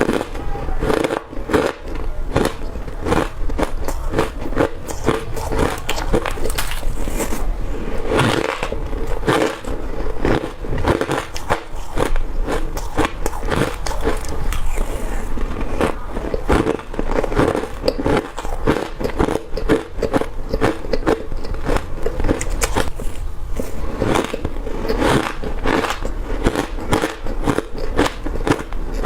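Crushed ice being bitten and chewed close to the microphone: rapid crunching and crackling that goes on without a break.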